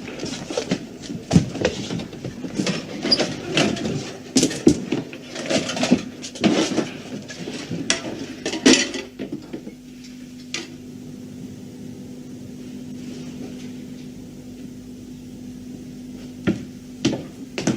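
Rapid clattering and knocking as objects are handled and moved about. After about nine seconds it gives way to a steady low hum, with a few more knocks near the end.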